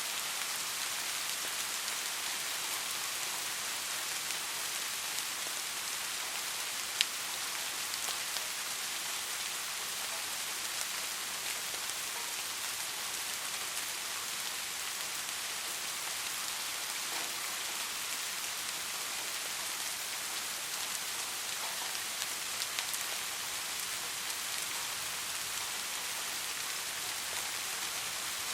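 Steady rain falling, an even hiss with scattered fine drop ticks and one sharper tick about seven seconds in.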